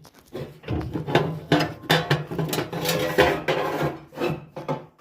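Repeated knocks and rustling as wood and tissue paper are handled and put into a fireplace.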